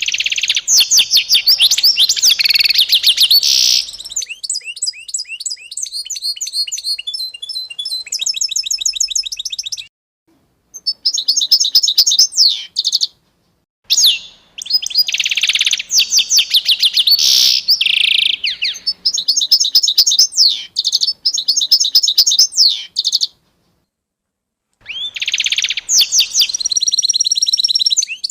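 Small songbirds chirping and singing in fast trills and rapid repeated notes, in several loud runs broken by a few short, sudden silences.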